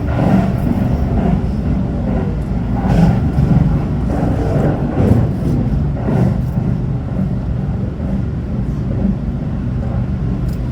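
Steady low rumble inside a Hanshin Railway train cabin as the train runs between stations, with wheel and rail noise.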